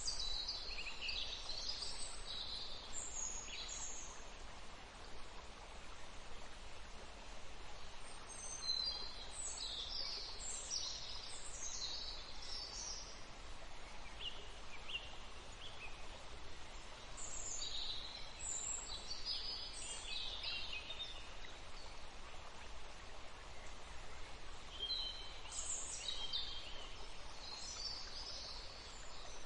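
Birds singing in bouts of quick, high chirps and trills, about four bouts several seconds apart, over a steady faint background hiss.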